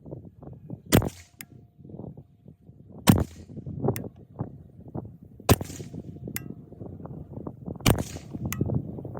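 Four gunshots from a 6.5 Grendel AR-type rifle with a short 12.5-inch barrel, fired at an even pace a little over two seconds apart, each with a short echoing tail. A fainter sharp click follows each shot about half a second later.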